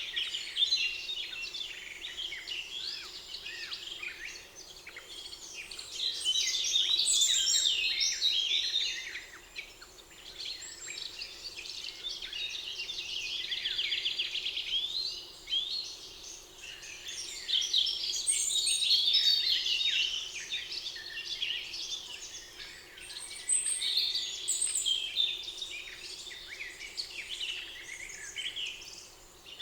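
Several songbirds singing at once in a spring forest, a busy mix of overlapping chirps and short phrases, with a fast trill of rapidly repeated notes about halfway through.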